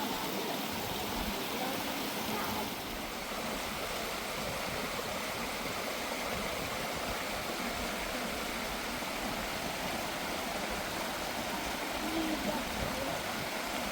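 Steady rush of a flowing stream, an even hiss of running water with no break.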